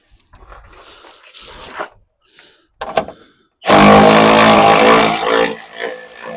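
A handheld power driver runs loud and steady for about two seconds, a little past halfway in, unscrewing a headlight assembly mounting bolt. Before it come a few light clicks of tool handling.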